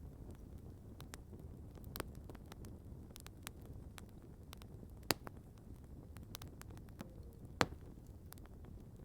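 Campfire crackling: scattered sharp cracks and snaps over a low steady rumble, with two louder pops, about five seconds in and again two and a half seconds later.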